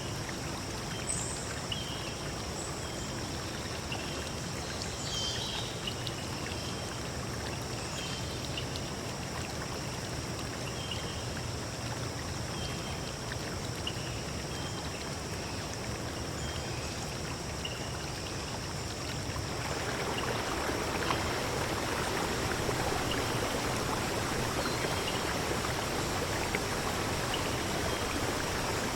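Running stream water, a steady rushing wash, with a bird chirping in short, evenly spaced calls. About two-thirds of the way through the water grows louder and brighter and the chirps fade.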